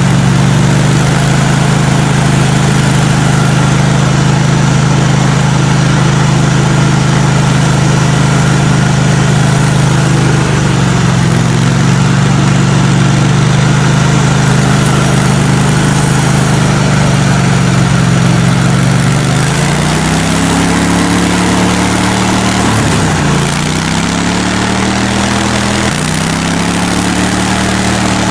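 An engine running at a steady speed. About two-thirds of the way through its pitch shifts and falls, dips sharply once, then climbs back up as the throttle changes.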